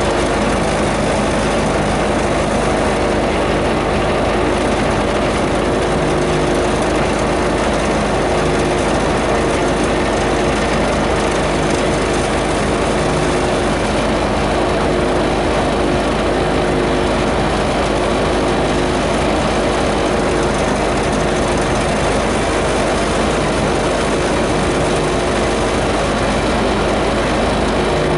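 A vehicle engine running steadily at a constant speed, with no revving or change in pitch.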